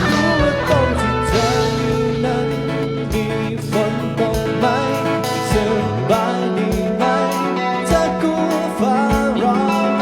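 Band playing an instrumental break: a bending guitar lead melody over bass and regular drum hits.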